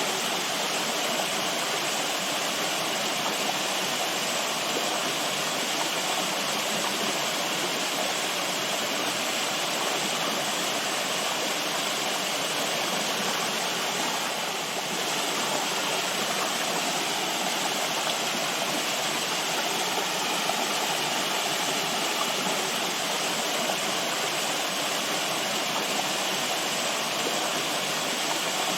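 Running water, a steady unbroken rushing with a full, even sound.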